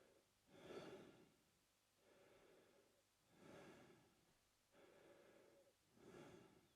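A man breathing slowly through his mouth, quiet and regular: a shorter, louder, hissier breath alternates with a longer, softer one, about three full breaths in all.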